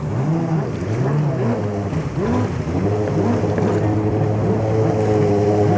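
Jet ski engines running out on the water, their whine rising and falling in pitch as the craft speed up and ease off, over a steady low engine hum.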